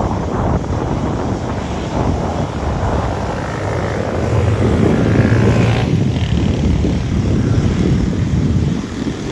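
Airbus A350-900 jet airliner landing, its twin Rolls-Royce Trent XWB turbofans making a loud, steady rumble. The rumble swells to a peak about halfway through, then eases off.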